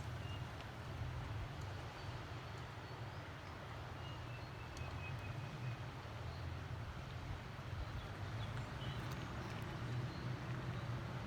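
Steady low rumble of a vehicle driving, engine and road noise.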